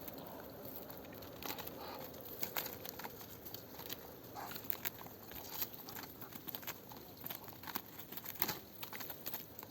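Ducks and chickens pecking and tearing at lettuce leaves: an irregular run of crisp clicks and ripping, with an occasional short call.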